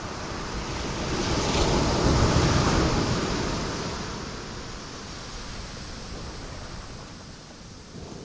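Ocean waves breaking on rocks: one wave swells up about a second in, crashes around two to three seconds, then washes back and fades.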